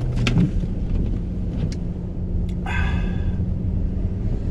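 Steady low rumble of a car's engine and tyres heard from inside the cabin while driving on a snowy road. A steady hum steps up in pitch about half a second in, with a click near the start and a brief high-pitched sound just past halfway.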